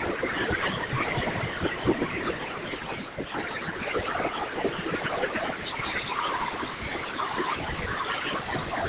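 Water spraying in a steady hiss, typical of a pressure sprayer washing air-conditioner parts, with a brief louder surge about three seconds in.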